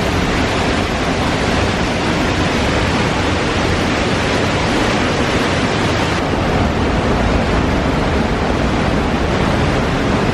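Loud, steady rush of Trümmelbach Falls' glacier waterfall pouring through the rock inside the mountain, its hiss a little duller after about six seconds.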